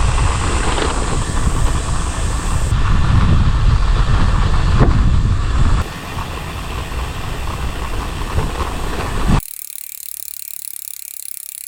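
Wind buffeting a cyclist's camera microphone on a descent, a heavy, uneven low rumble that eases about six seconds in. A little after nine seconds it cuts off abruptly to a faint hiss.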